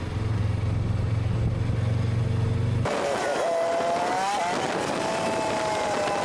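Honda CB500X's parallel-twin engine running steadily as a low hum. About three seconds in, the sound cuts abruptly to a small camera drone's propellers whining, their pitch wavering up and down.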